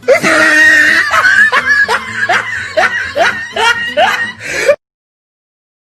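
A person laughing hard in short rising bursts, about three a second, after a loud shrill burst at the start; the sound cuts off abruptly near the end.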